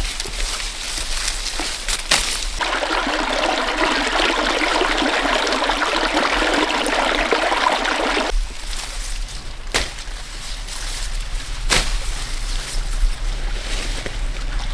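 Water running or trickling steadily for about six seconds, starting a couple of seconds in and stopping suddenly; afterwards a faint low hum and a few sharp clicks.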